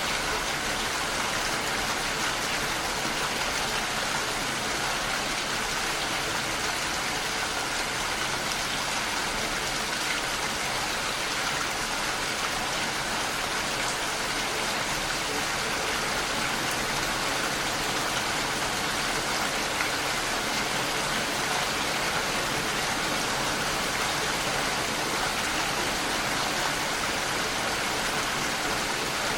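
Heavy rain falling steadily, an even hiss of drops with no breaks or changes.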